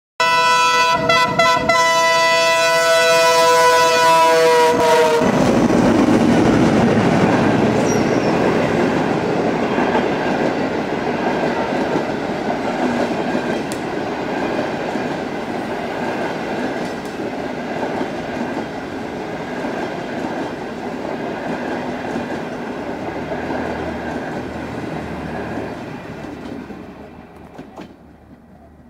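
Horn of a passenger train's leading diesel locomotive (CNR CKD8G with an EMD J26CW-AC) sounding a long chord that drops in pitch about five seconds in as the locomotives pass. Then the locomotives and passenger coaches roll by at speed, and the noise fades away as the train recedes near the end.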